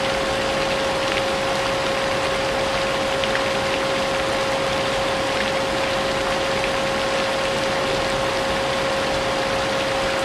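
Vacuum cleaner motor running steadily, with a constant whine, mixed with steady rain and scattered raindrop ticks.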